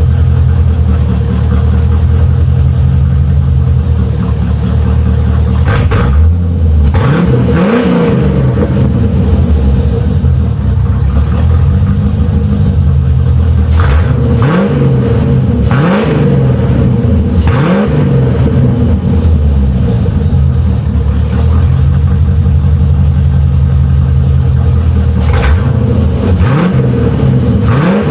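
1985 Chevrolet Corvette C4's 5.7-litre V8 exhaust idling, blipped several times so the revs rise and fall quickly, with steady idle between the blips.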